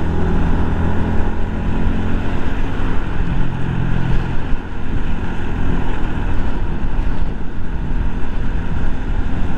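Yamaha 125 cc single-cylinder motorcycle engine running steadily on the move, under heavy wind noise and the hiss of tyres on a rain-soaked road.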